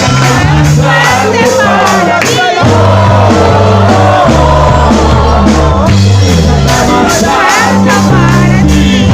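A group singing a Christian praise song together over a band with a steady bass line.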